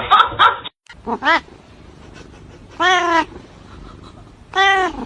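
A cat meowing three times: a short call about a second in, then two longer, drawn-out meows.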